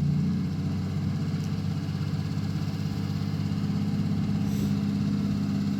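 Vehicle engine idling steadily with an even pulsing beat.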